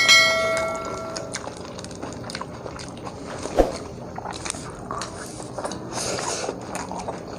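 Chewing and biting food, with scattered small clicks. It opens with a short ringing clink that fades within about a second and a half, and a single knock comes about three and a half seconds in.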